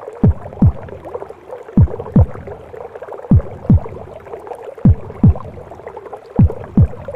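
Mother's heartbeat as heard inside the womb: a deep double lub-dub thump repeating about every second and a half, five beats in all. It sits over steady whooshing, gurgling womb noise.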